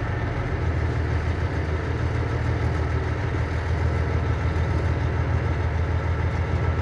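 Cummins ISM inline-six diesel of a 1999 International 9100i tractor running steadily at low speed, with a low, even hum and no revving.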